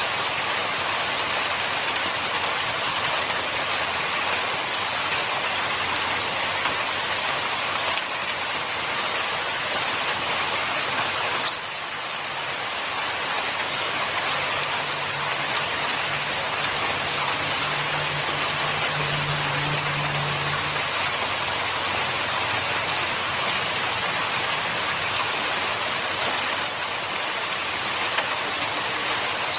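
Steady rain-like hiss throughout, with a faint low hum partway through and two brief high chirps.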